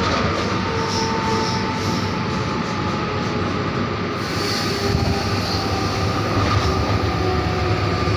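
An electric locomotive under way, heard inside its cab: a steady loud rumble and rattle of the running train, with faint steady whines over it.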